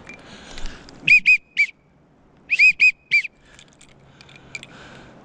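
Duck call blown as a whistle: short, loud whistled notes that rise and fall, three in quick succession, then a pause, then four more.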